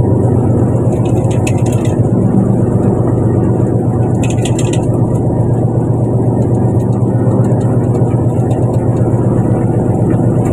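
Fishing boat's engine running steadily with a constant low drone. Two short higher-pitched noises come through about a second and a half in and again around four and a half seconds in.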